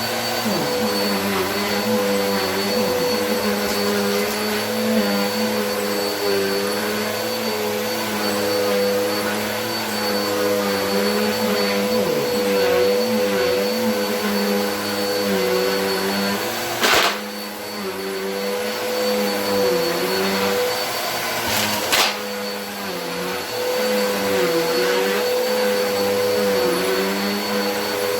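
Vacuum cleaner running steadily, its motor hum wavering up and down in pitch at times. Two sharp knocks cut through about two-thirds of the way in and again about five seconds later.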